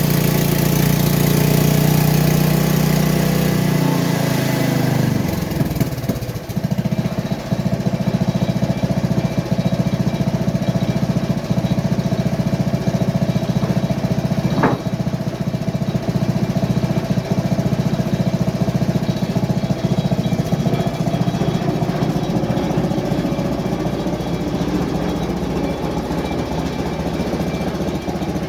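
Portable sawmill's small engine running under load, then slowing about five seconds in, its pitch and level falling before it settles into steady running. A brief high chirp comes about halfway through.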